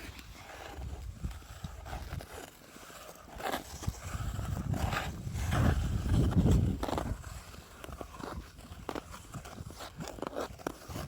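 Ice skate blades scraping and striking natural lake ice in irregular strokes, over a low rumble of wind on the microphone.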